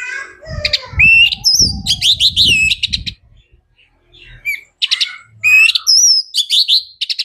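Orange-headed thrush singing in two loud phrases of quick, sweeping whistled notes. The first phrase ends about three seconds in and the second starts about a second later.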